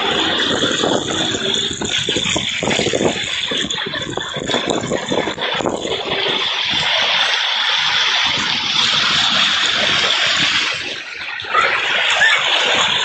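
Heavy rain pouring down, with water gushing and splashing and a rattling drum of drops on hard surfaces.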